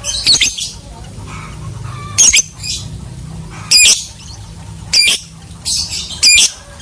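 Lovebird giving short, shrill squawking calls, about six of them at irregular intervals of roughly a second, over a steady low hum.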